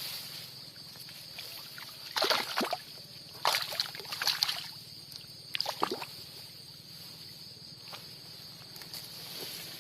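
Water splashing and sloshing in shallow paddy water, in three bursts a second or so apart, as a person wades through or lifts a fishing line out of the flooded rice field.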